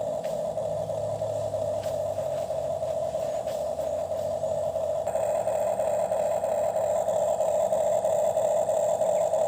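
Small electric motor of a toy excavator running with a steady whine that grows gradually louder, with a few light clicks in the first half.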